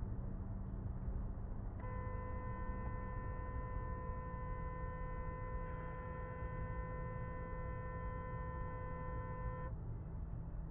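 Steady low vehicle rumble, with a single steady pitched tone, like a held horn or buzzer, that starts about two seconds in, lasts about eight seconds and stops abruptly.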